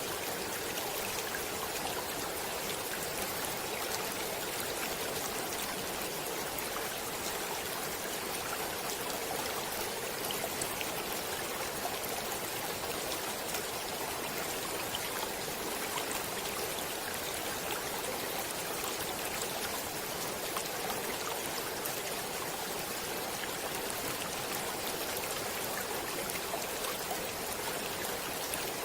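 Stream water flowing steadily: a constant, even rush with no let-up.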